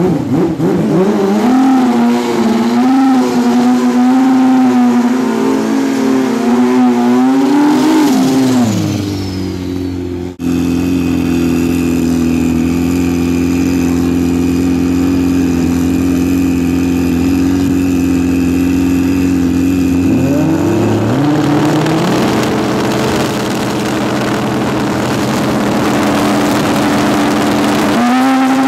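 Pro Street drag motorcycle engines: revved high with a wavering pitch for the first eight seconds, then dropping to a steady idle at the starting line. About twenty seconds in they are revved up sharply and held high, and the pitch climbs again near the end.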